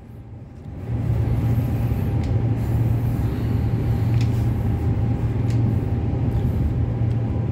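Interior of a Transperth B-series electric multiple unit train under way: a steady low hum of traction motors and running gear with wheel and rail noise. It is quieter for about the first second, then rises to a steady level.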